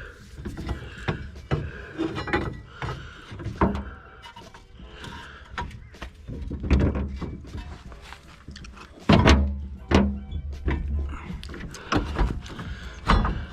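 Metal clunks and knocks as a 2009 Honda Accord's rear strut is levered out of its mount with a pry bar, with a heavy thunk about nine seconds in and another about a second later.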